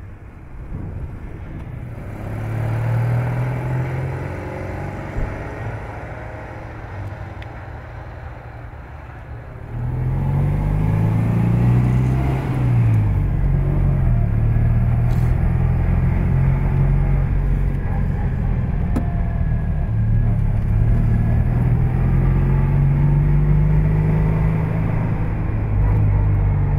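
Citroën 2CV 6 Spécial's small air-cooled flat-twin engine driving, its revs rising as it pulls away. About ten seconds in it becomes louder and closer, heard from inside the cabin, where the revs climb and fall back once and then hold steady at cruising speed.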